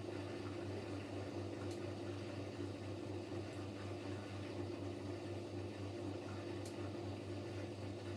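Siemens Siwamat Plus 574 washing machine humming steadily at the end of its softener rinse, with a few faint ticks; typical of the drain pump emptying the rinse water before the spin.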